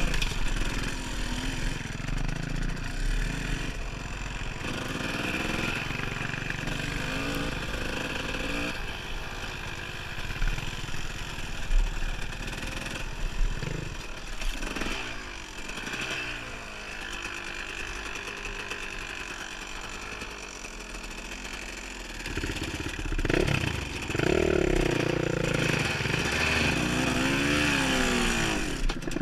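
Dirt bike engine revving up and down as it is ridden along a trail, the pitch rising and falling with the throttle, with a couple of sharp knocks partway through.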